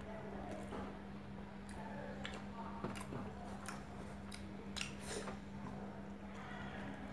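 Close-up eating sounds of a man eating rice by hand: scattered wet chewing smacks and clicks, irregular and several seconds apart, over a steady low hum.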